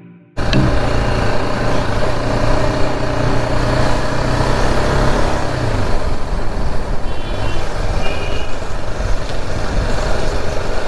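Motorcycle riding through town traffic: engine hum under heavy wind and road noise on the microphone, with a few short high-pitched beeps a little past the middle.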